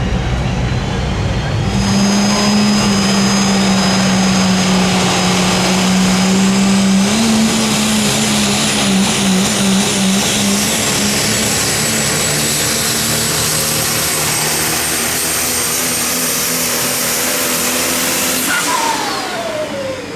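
Super stock diesel pulling truck under full throttle on a pull, its engine running hard with a high turbocharger whistle over it for about sixteen seconds. Near the end the throttle closes and the whistle falls away in pitch as the turbos spool down.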